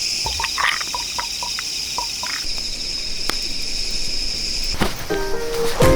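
Night insect chorus, crickets chirping steadily, with a few short clicks and chirps in the first half. Music comes in near the end.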